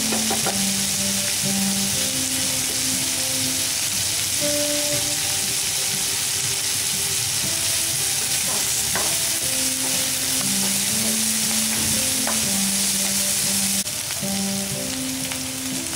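Chopped onions with green chillies, ginger and peanuts sizzling steadily in hot oil in a non-stick pan, stirred with a wooden spatula, with a few light knocks of the spatula on the pan. The onions are being sautéed until light brown.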